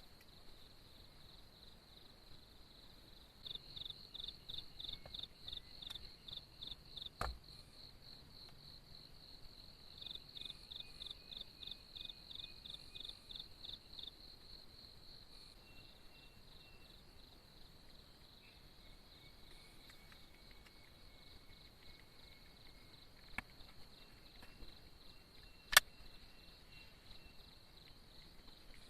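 Forest insects calling: a steady high-pitched drone with two stretches of fast, rhythmic chirping, about three to four pulses a second. Sharp clicks or knocks come a few seconds in and twice near the end, the last one the loudest sound.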